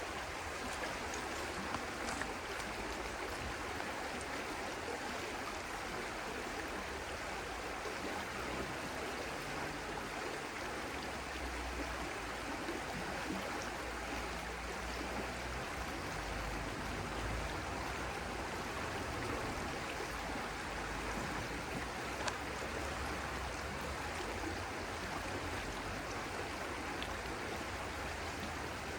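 Stream water flowing steadily, with a few faint splashing ticks.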